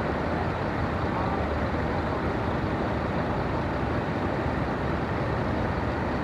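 Scania bus running steadily, a low, even engine and road sound with no change in pitch or level.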